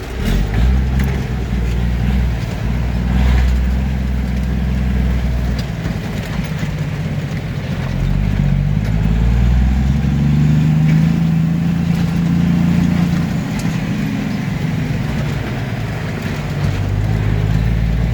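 Big-rig truck's diesel engine running under way, its pitch shifting up and down several times as engine speed changes.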